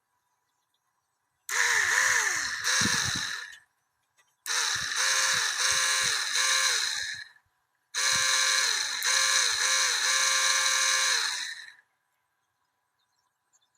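Small electric motor whining in three bursts of about two to four seconds each, its pitch rising and falling within each burst.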